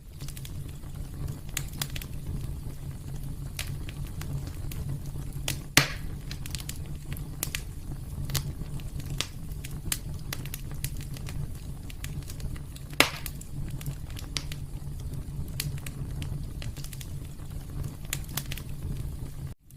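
Fire crackling in a fireplace over a low, steady rumble, with sharp pops scattered throughout and two louder pops, about six and about thirteen seconds in. The sound cuts out for an instant just before the end.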